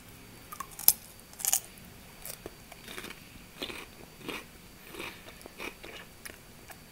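A person biting into a slice of fresh cucumber and chewing it with the mouth closed: a crisp snap about a second in, then irregular soft crunches.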